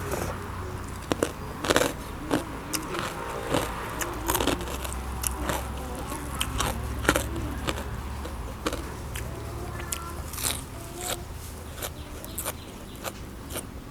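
A person chewing and crunching food up close, with irregular crisp clicks and wet mouth sounds over a low steady hum.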